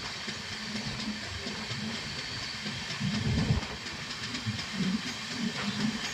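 Train running along the track: a steady hiss of wheel and rail noise with uneven low rumbles, loudest about three seconds in.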